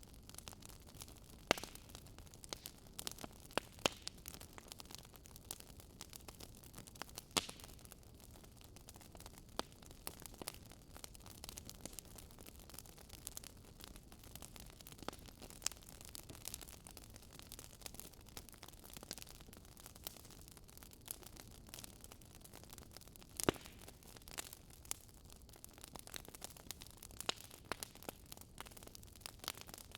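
Wood fire crackling: irregular sharp pops and snaps over a steady soft hiss, with a few louder pops now and then.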